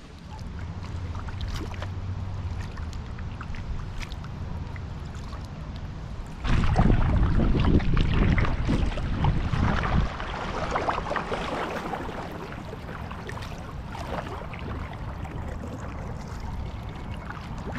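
Kayak paddle strokes dipping and splashing in river water, with wind rumbling on the microphone; a stronger gust buffets the microphone for a few seconds about six seconds in.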